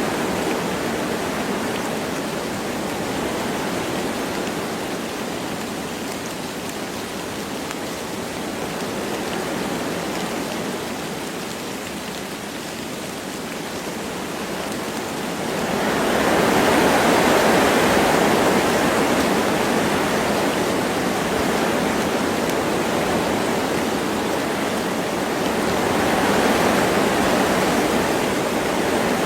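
Wind blowing through forest trees with light rain, a steady rushing that swells in a stronger gust a little past halfway and again near the end.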